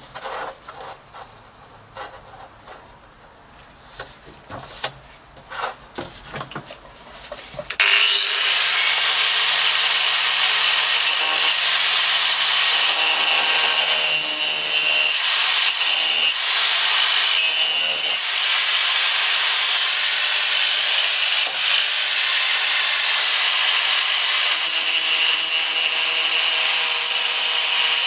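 Power tool cutting through a large pipe: a loud, steady cutting noise that starts suddenly about eight seconds in, after a few light knocks and handling sounds.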